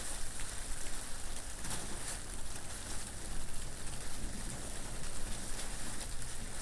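Steady rain falling, an even hiss with scattered ticks of individual drops, over a low wind rumble.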